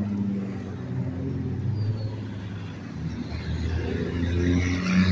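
A car running by on the road, its engine hum steady, with engine and tyre noise growing louder over the last couple of seconds as it comes closer.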